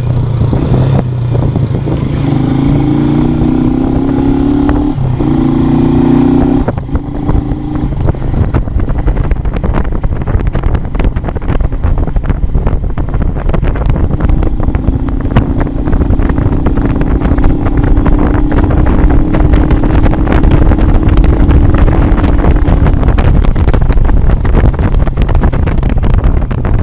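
Motorcycle engine running under way, with a strong low rumble and a rushing noise over it. Its note holds steady for a few seconds near the start, then later climbs slowly for several seconds.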